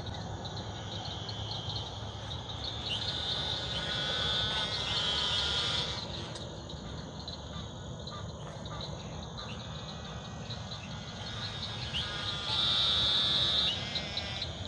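Swamp chorus of frogs and insects calling at night: a steady high trilling, with louder stretches of rapid pulsed calls about three to six seconds in and again near the end.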